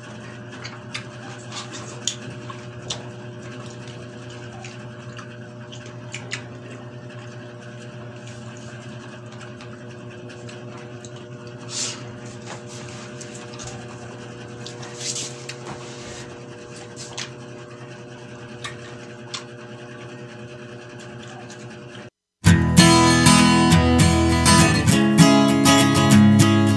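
A steady low hum with scattered faint clicks and smacks of two people chewing pineapple chunks, then, after a brief drop-out about 22 seconds in, loud acoustic-guitar folk background music.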